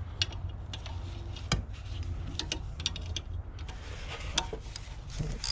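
Hand ratchet wrench clicking in short, irregular runs as a bolt on the fuel rail bracket is worked loose, over a steady low hum.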